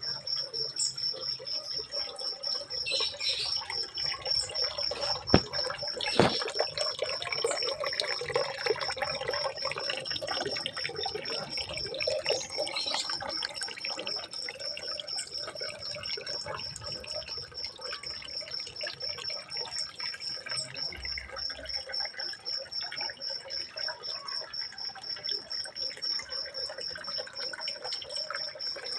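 Running, trickling water with a constant rapid high-pitched pulsing over it. Short chirps come and go, most of them in the first half.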